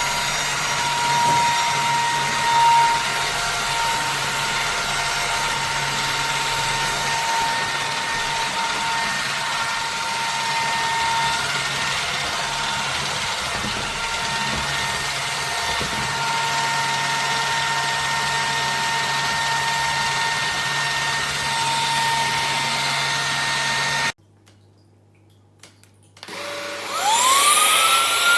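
Cecotec Scoba 2100 Twice cordless stick vacuum running with a steady hiss and a high motor whine, switched off suddenly about 24 seconds in. A couple of seconds later it is switched on again, and its motor spins up in a quick rising whine to a steady high pitch.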